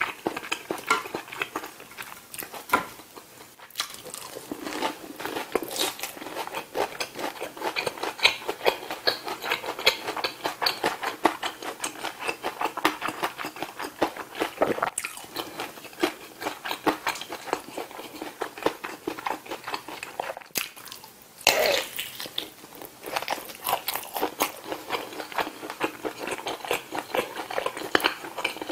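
A person chewing crisp breaded mini pork cutlets, with many small irregular crunches.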